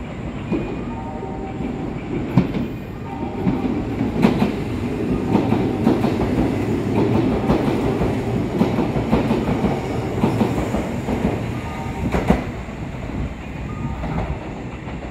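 Kintetsu electric commuter train running through a station at speed without stopping: steady rumble with wheels clacking over rail joints, loudest through the middle and fading away near the end.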